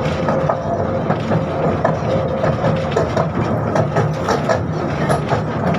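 Running noise of a 71-605 (KTM-5M3) tram, heard from inside the car: a steady low rumble with a held hum from the traction gear, with scattered clicks and rattles through the middle.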